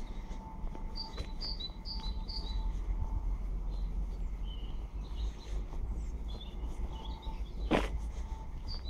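Small birds chirping in short, high, scattered calls over a steady low rumble of outdoor background noise. There is one short, loud burst of noise near the end.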